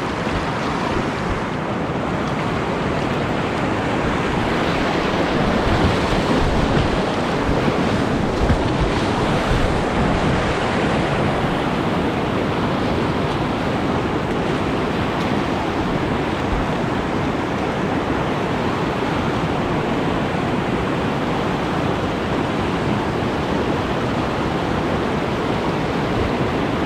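Whitewater rapid rushing steadily and loudly close to the microphone.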